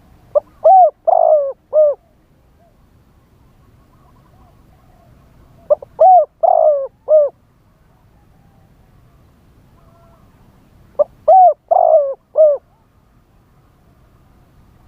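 Spotted dove cooing: three song phrases about five seconds apart, each a quick run of four or five coos, with fainter cooing between them.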